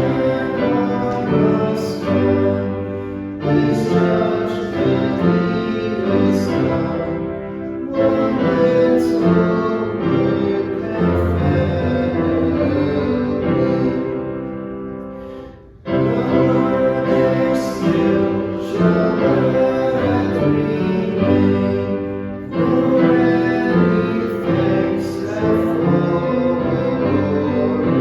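Group of voices singing a hymn with instrumental accompaniment, in phrases a few seconds long, with a brief pause between phrases about halfway through.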